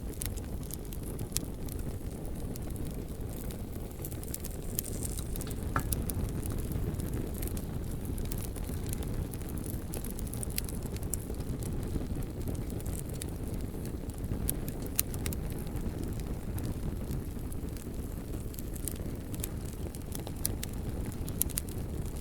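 Bonfire burning with a steady low rumble of flames and scattered sharp crackles and pops from the logs.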